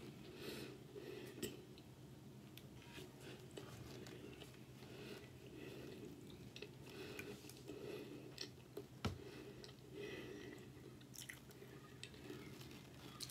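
A person chewing food close to the microphone, with faint mouth sounds and small crackling clicks. A single sharp click about nine seconds in.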